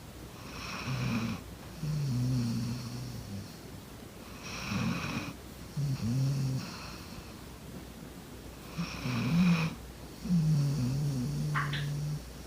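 Golden retriever snoring loudly in its sleep: three snoring breaths, roughly one every four seconds, each a hissing intake followed by a low, buzzing snore.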